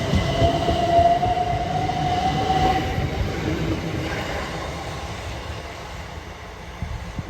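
A train passing and moving away: low rumble and wheel clatter with a high whine over it that fades out about three seconds in, the whole sound slowly dying away, with a couple of short knocks near the end.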